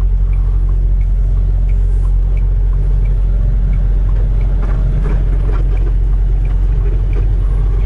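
Semi truck's diesel engine running steadily, heard from inside the cab. A faint turn-signal tick repeats about one and a half times a second.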